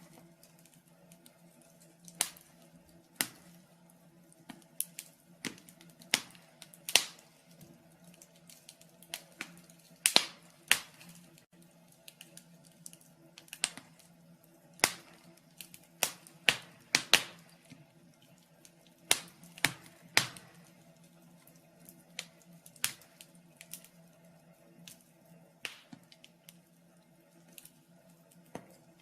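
Wood fire crackling in a fireplace: irregular sharp pops and snaps, roughly one a second, over a faint steady low hum.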